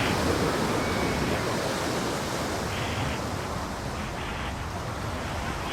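Gulf surf washing onto a sandy beach as a steady, even rush of noise.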